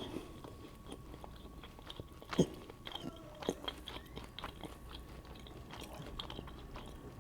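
A person chewing food close to the microphone, with small wet mouth clicks and crackles and a louder bite about two and a half seconds in.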